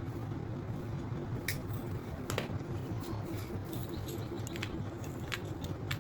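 A steady low rumble with a few scattered sharp clicks and snaps, like small handling sounds.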